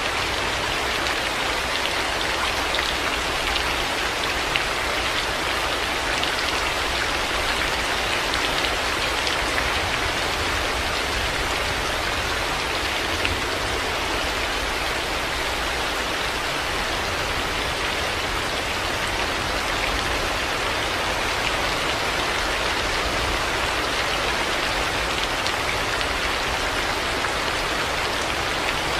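Heavy rain falling steadily: a dense, even hiss of many drops, with a few sharper individual drop hits standing out.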